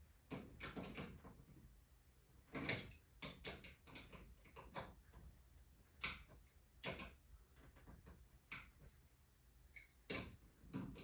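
Faint, irregular clicks and knocks of hand work on garage door spring hardware, about a dozen scattered through, with a louder knock near the start and another near the end.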